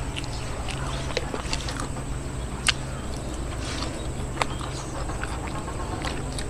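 A person chewing food close to the microphone: soft wet smacking with a few sharp mouth clicks, over a steady low hum.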